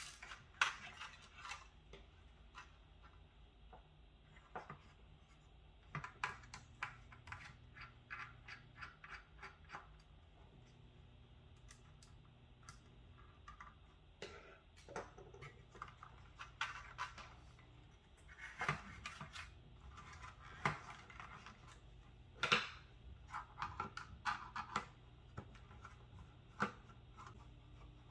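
Irregular small clicks, taps and scratches of hard plastic and metal computer parts being handled and worked loose while a desktop PC is taken apart.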